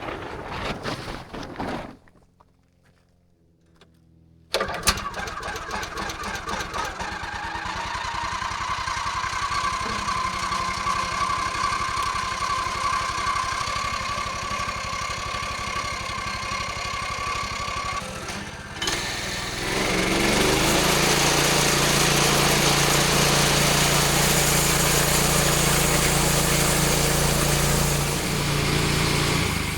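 Portable sawmill's small gasoline engine starting up about five seconds in and running steadily. From about twenty seconds in it runs louder and more evenly.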